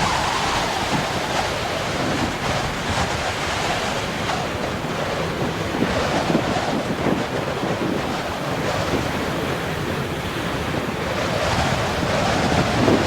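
Heavy storm surf breaking on a beach, with strong wind buffeting the microphone. It is a steady roar of noise that swells a little louder near the end.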